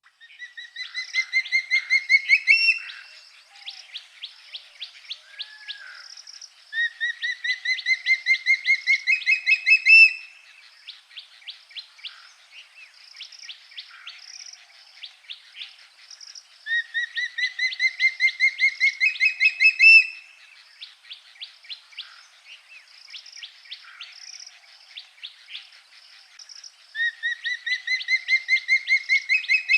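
A songbird repeating a song of rapid notes that climb steadily in pitch and grow louder, about three seconds each time, four times. Softer chirps from other birds fill the gaps between the songs.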